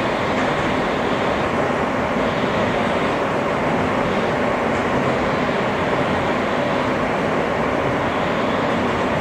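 R160 subway car running steadily at speed between stations, heard from inside the car: an even, unbroken noise of the wheels on the rails.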